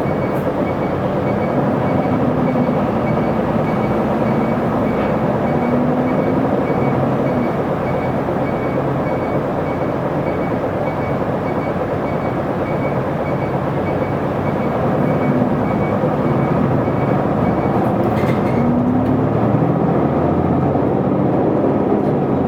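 Interior running sound of an Isuzu Erga city bus (PKG-LV234L2): its inline-six diesel engine drones under steady road noise, rising in pitch several times as the bus accelerates.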